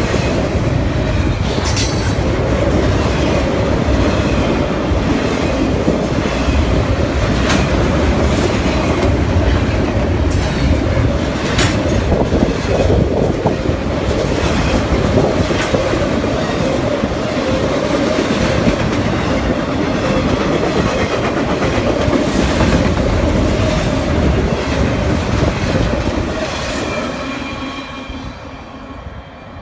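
Double-stack intermodal container well cars rolling past: a steady rumble of steel wheels on rail, broken by sharp clicks and clanks every few seconds. It fades near the end as the last car goes by and moves away.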